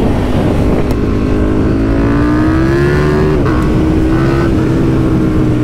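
KTM 1290 Super Duke R V-twin engine pulling under acceleration, its pitch climbing steadily, then a quick upshift about three and a half seconds in, after which it runs on at a steady, slowly easing pitch, with wind rush on the microphone.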